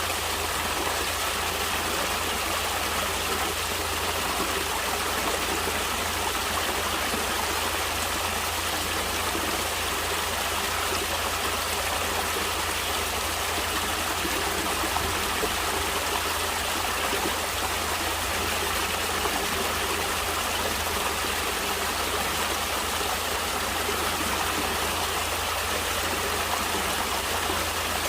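Natural stream water flowing steadily, an even, unbroken rush of water.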